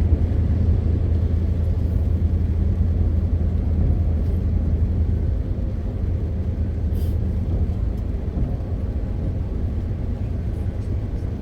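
MAN TGX 520 truck's straight-six diesel running steadily on the road, a low drone with road noise, easing off slightly about halfway through.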